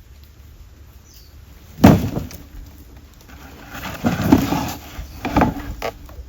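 A sharp, loud knock about two seconds in, then a run of several clattering knocks a couple of seconds later.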